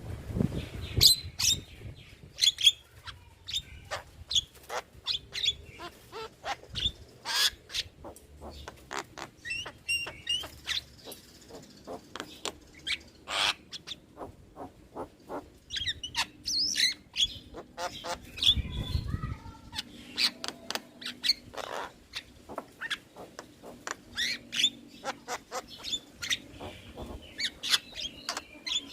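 Javan myna (jalak kebo) calling: a rapid, continuous string of short sharp whistles, chirps and harsh chattering notes.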